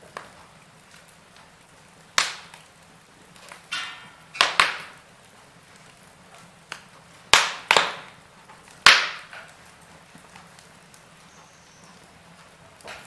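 Wood burning in a fireplace, with a scattering of sharp crackles and pops about two, four and seven to nine seconds in, over a faint steady hiss of the fire.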